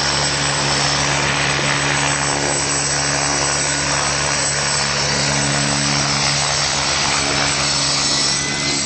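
Helicopter running with a steady, unchanging engine and rotor sound.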